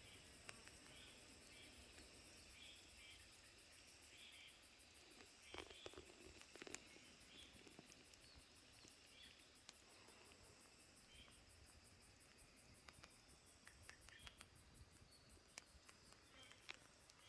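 Faint, steady high-pitched insect trill, rapidly pulsed, with short faint chirps and a few soft clicks scattered through it.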